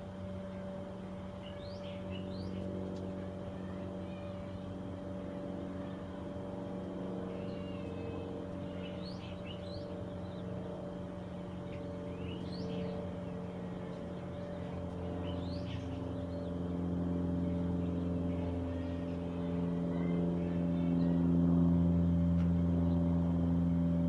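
Short bird chirps in small clusters every few seconds, over a steady low motor hum that grows louder in the second half.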